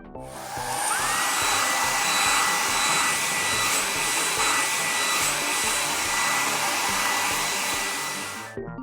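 Cartoon sound effect of a car-wash air dryer blowing: a steady rush of air with a motor whine that rises about a second in and then holds one pitch. It cuts off sharply near the end.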